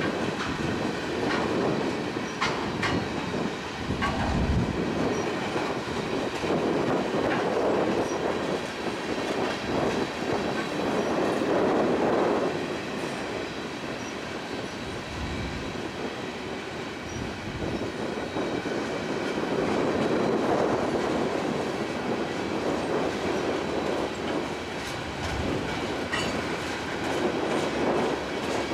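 A CSX freight train of loaded garbage gondolas rolling past slowly, steel wheels clattering over the rail joints with a rumble that swells and fades as each car goes by, plus scattered sharp clicks. The train is slowing, which the railfan guesses is for a red signal ahead.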